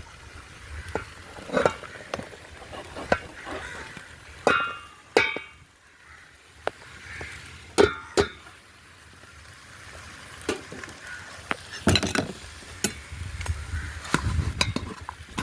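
Chicken being stirred in a cooking pot: a utensil knocks and clinks against the pot at irregular intervals, with light sizzling.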